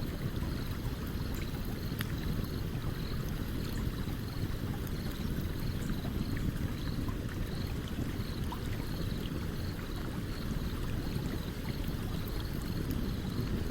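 Stream water running steadily, with a few faint crackles from a campfire. A faint high chirping repeats evenly throughout.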